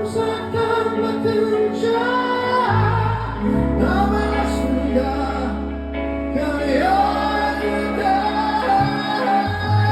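Live music: a singer's long, drawn-out sung notes, bending in pitch, over a band accompaniment with sustained bass notes that change a few times.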